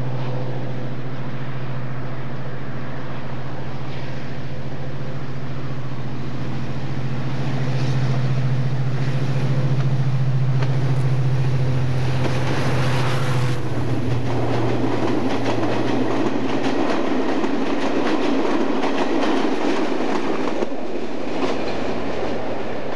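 Diesel locomotive approaching and passing at speed, its engine running with a steady note that grows louder and drops away just past the halfway point. The passenger coaches then rush by with wheels clattering in a rapid clickety-clack.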